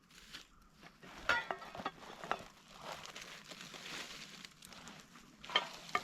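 Crinkling and rustling of something being handled, broken by a few sharp clicks and knocks, the loudest about a second in and again near the end.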